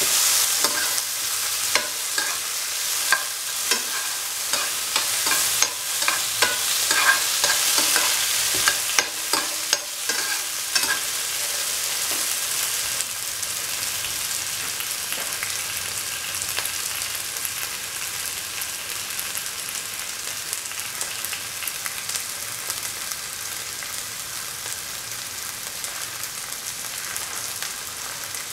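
Shallots, tender mango and tomato frying in oil in a pan, sizzling, with a spatula clacking and scraping against the pan as they are stirred. After about twelve seconds the stirring stops and a steadier sizzle slowly grows quieter.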